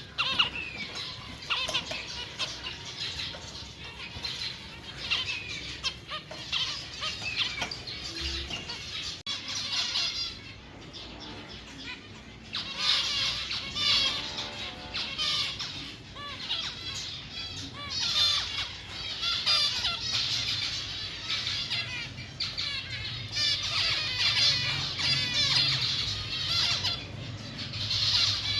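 Many caged pet birds in a bird market chirping, chattering and squawking together in a dense, overlapping chorus that grows busier about halfway through.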